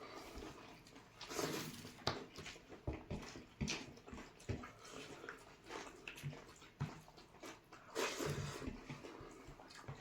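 People eating curry and rice, with irregular wet chewing and lip-smacking clicks. There are two louder, longer noisy stretches, about a second and a half in and near the end.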